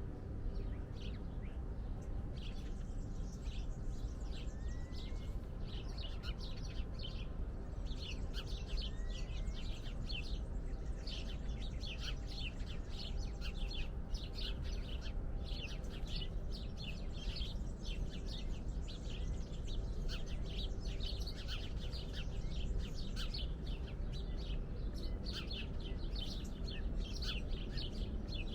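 Many small birds chirping, with dense, quick, high calls overlapping throughout and a couple of short rising whistles. Under them runs a steady low rumble of background noise.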